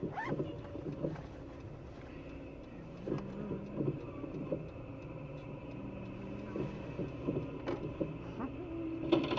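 Steady car engine and road noise from a moving car, with a few faint knocks.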